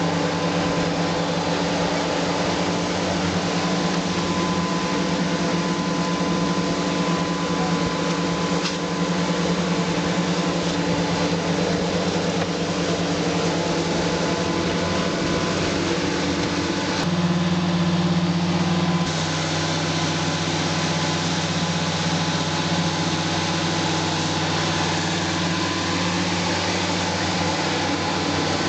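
Machinery engine running at a steady pitch, with the sound changing abruptly about seventeen seconds in and again about two seconds later.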